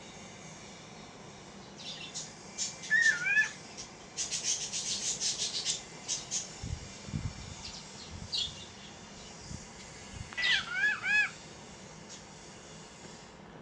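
Pet birds chirping and calling: scattered sharp chirps, a quick run of them, and two bouts of arched whistled calls.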